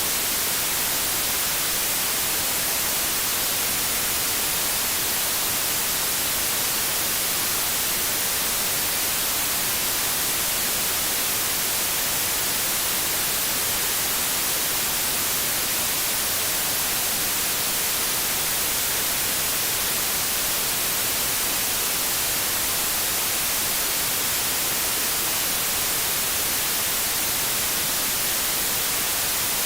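Television static: steady, unbroken hiss, bright and strongest in the high end, with no change throughout.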